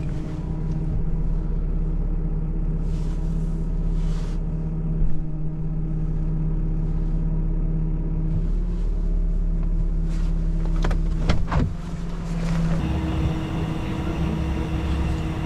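Tow truck engine running steadily, with a few brief knocks about eleven seconds in and a change in the engine's note near the end.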